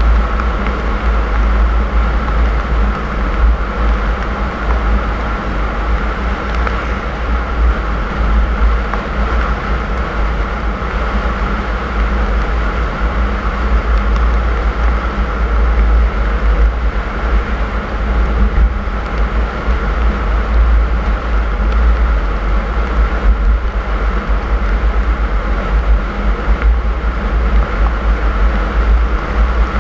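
Car driving on a snowy road: steady road and engine noise with a strong deep rumble, unchanging throughout.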